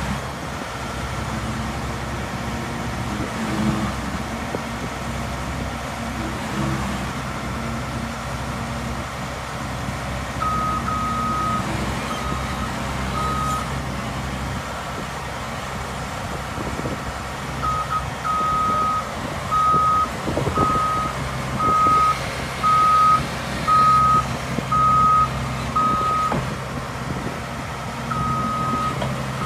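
Heavy machinery engine running steadily while a backup alarm beeps. The beeps are one tone, start about a third of the way in, come in broken runs at first, then settle into a regular beep about once a second, and return near the end.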